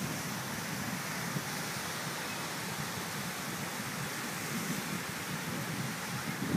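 Steady wind noise on the microphone mixed with the wash of surf, with no distinct events.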